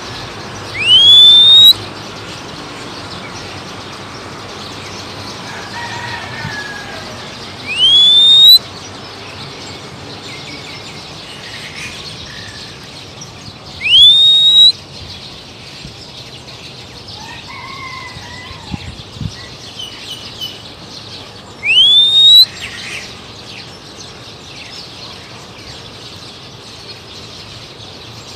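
A loud rising whistle repeated four times, several seconds apart, whistled to call a wild Oriental magpie-robin, with fainter bird calls between.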